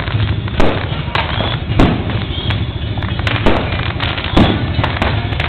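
Fireworks going off: about seven sharp bangs at uneven intervals over a steady low din.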